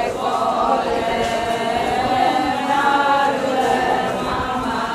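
A group of voices chanting the chorus of a Ponung song in unison, many voices blended into one sustained, gently rising and falling line that answers the lead singer's call.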